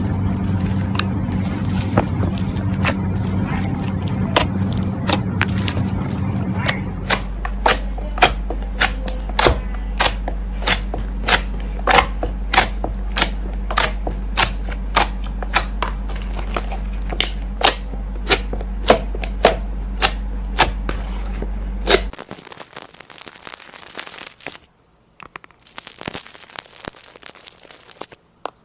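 Slime being played with: from about seven seconds in, a long run of sharp clicks and pops, roughly two a second, over a steady low hum. Near the end it cuts to softer, broken crinkly noise.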